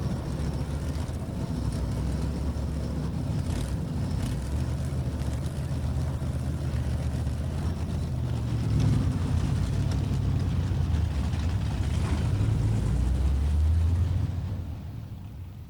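Racing stock car engine running while it warms up, a steady low engine note that grows louder about halfway through and then fades out near the end.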